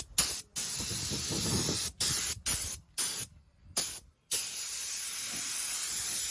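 Drill-driven 6-inch bristle brush scuffing painted floorboards, a scrubbing hiss in a series of short bursts that ends with one longer run of about three seconds.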